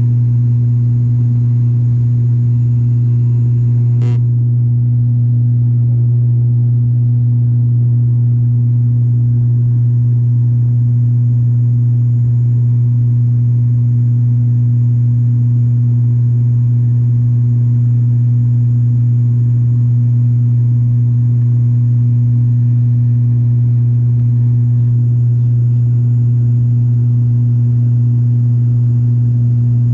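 Turboprop airliner's engines and propellers heard from inside the cabin: a loud, steady drone with a deep hum that holds level throughout. A brief sharp click about four seconds in.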